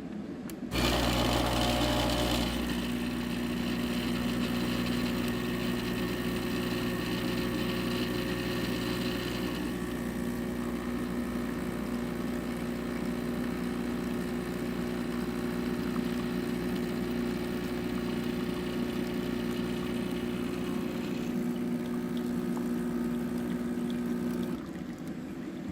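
OXO Brew conical burr coffee grinder running with a steady motor hum, louder for the first couple of seconds, then stopping shortly before the end.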